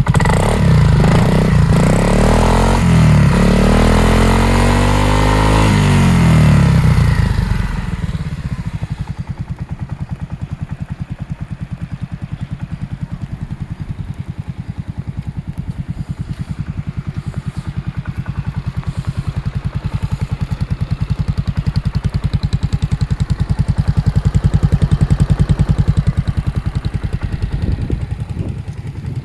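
Yamaha Majesty 250 scooter's single-cylinder four-stroke engine revved with the throttle, its pitch rising and falling several times. About seven seconds in it drops back to a steady idle, which picks up slightly and settles again near the end.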